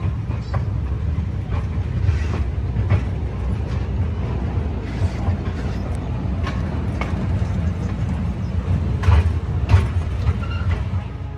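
A diesel-hydraulic tour train running along its track: a steady low rumble with scattered clicks and knocks from the wheels and cars, the sharpest knocks near the end.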